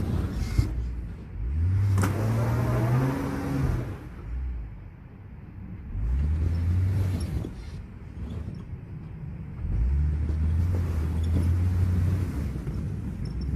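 Jeep Gladiator pickup's engine revving in three surges over a low rumble, the first climbing in pitch, with a sharp click about two seconds in.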